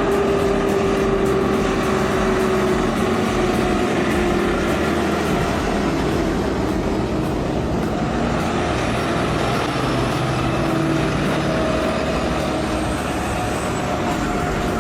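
Heavy truck engine running steadily, its pitch drifting slowly down and then up again.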